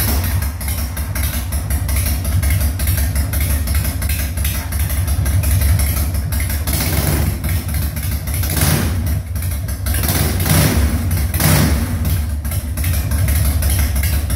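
The FXR's engine running just after its first start following years of sitting, idling with a rough, fast pulse and blipped up in revs four times in the second half.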